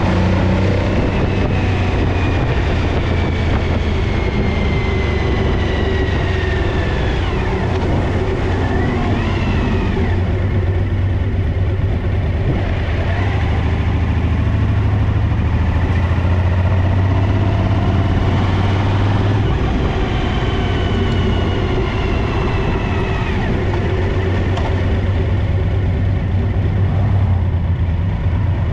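Suzuki DL1000 V-Strom V-twin engine running steadily with a strong low hum, with the rear cylinder misfiring. A whine slowly falls in pitch starting about two seconds in, and again about twenty seconds in.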